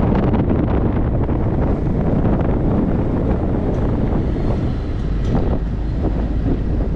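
Wind noise on the microphone of a moving motorcycle, with the bike's engine and road noise steady underneath.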